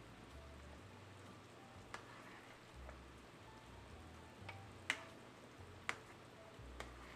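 Faint kitchen-utensil clicks and clinks over a soft steady hiss: a few sharp, scattered ticks, the loudest about five seconds in and another about a second later.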